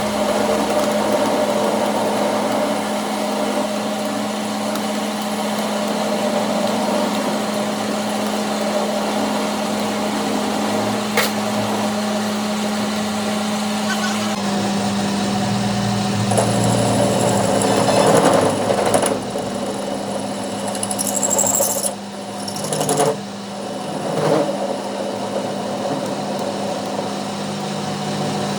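A machine running with a steady hum that drops slightly in pitch about halfway through, with a few knocks and clatters in the second half.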